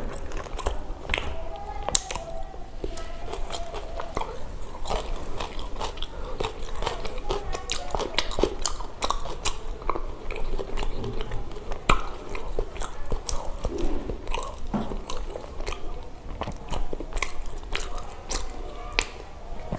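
Close-miked eating: a person biting and chewing mouthfuls of pav bhaji, soft bread rolls with spiced vegetable mash, with many short wet mouth clicks throughout.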